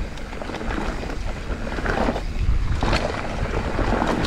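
Mountain bike riding fast down a dry dirt trail: wind rushing over the microphone and tyre rumble, with scattered knocks and rattles as the bike hits bumps.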